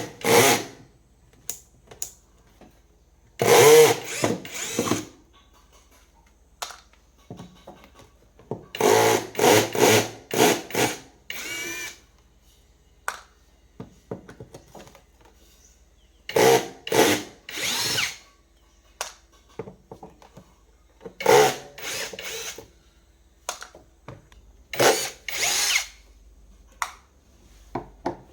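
Handheld power drill running in short bursts of a second or so, starting and stopping repeatedly with brief pauses between.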